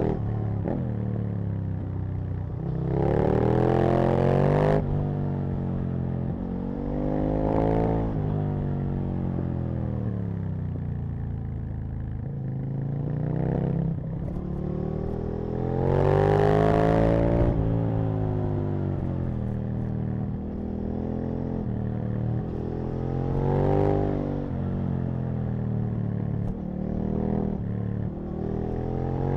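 Aprilia RSV Mille's 60-degree V-twin engine under way, revs rising hard and dropping off again several times, with the strongest pulls about three seconds in and about sixteen seconds in.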